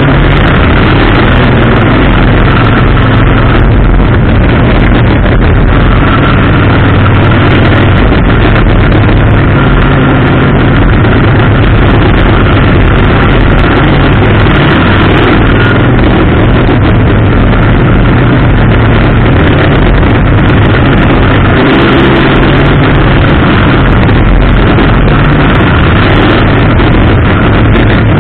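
Race car's engine running hard around the oval, heard from onboard the car: loud and continuous, its pitch shifting a little as it comes on and off the throttle.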